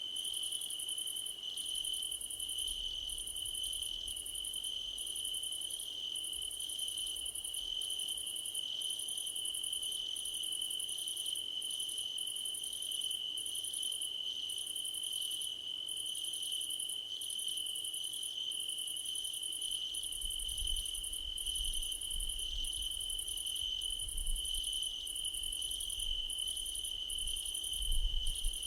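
Crickets chorusing in grass: one steady high trill runs under a higher, buzzier song that comes in pulses about once a second. A faint low rumble joins in the last third.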